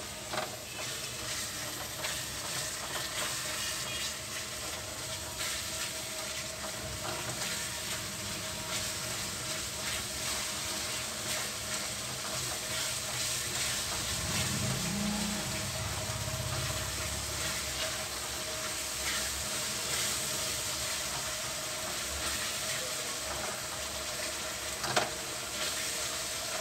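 Tomato-and-spice masala sizzling in hot oil in an iron kadhai while being frying down (bhuna), with a silicone spatula stirring and scraping against the pan in many short strokes.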